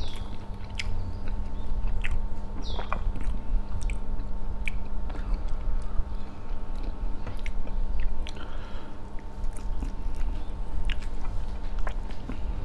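Close-miked chewing and mouth sounds of a person eating grilled chicken, with scattered small clicks and smacks from fingers pulling at the chicken.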